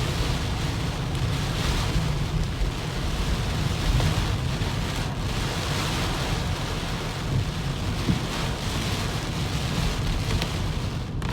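Heavy typhoon rain falling steadily, a dense hiss over a deep continuous rumble.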